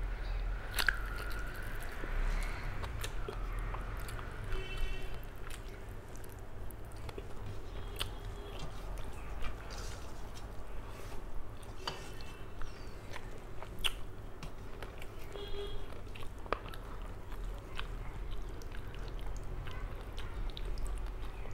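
Close-up chewing and mouth sounds of a person eating rice and curry by hand, with many small clicks throughout, alongside the soft scrape of fingers mixing rice on a steel plate.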